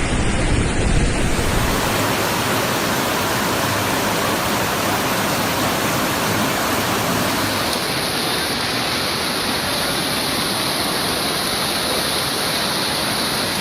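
Steady, loud rushing of water from flash floods, a dense noise with no pauses. Its tone shifts about two seconds in and again near eight seconds.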